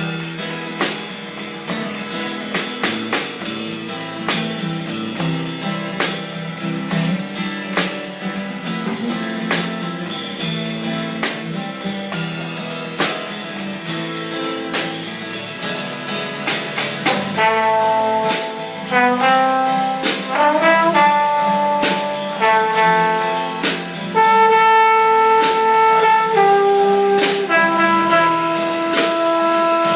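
Live band music with a steady beat; a little past halfway a lead melody of held and sliding notes comes in over it and the music gets somewhat louder.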